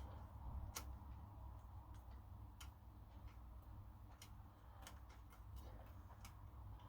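Near silence: a faint low hum with a few light, scattered clicks at uneven intervals.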